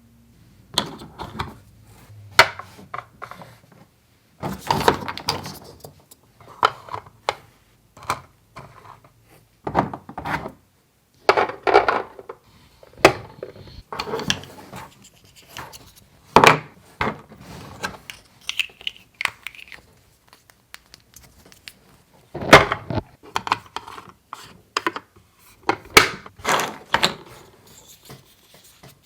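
Toy mini kitchen pieces being handled and set down: an irregular run of sharp clicks and knocks with brief rubbing and scraping between them.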